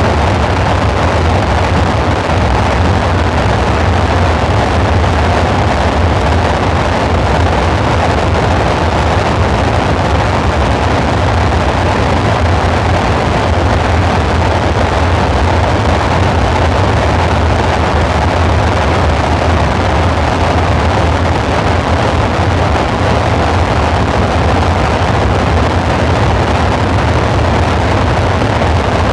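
Dark ambient synthesizer drone: a steady, dense rumble with a deep low hum under a noisy wash, unchanging throughout.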